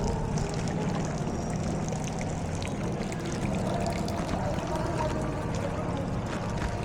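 Floodwater sloshing and splashing steadily, with a low rumble underneath and scattered small clicks.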